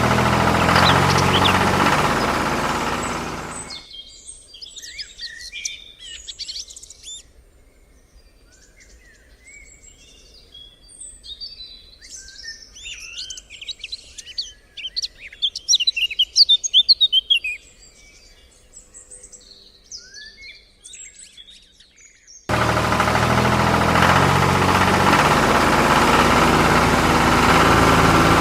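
Several birds chirping and trilling, busiest around the middle. A steadily running engine fades out near the start and cuts back in abruptly near the end.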